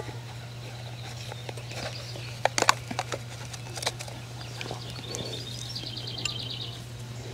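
A bird sings a fast, even trill of high notes for about two seconds in the second half, over a steady low hum. A few sharp clicks and taps from handling a hand trowel come about two and a half seconds in.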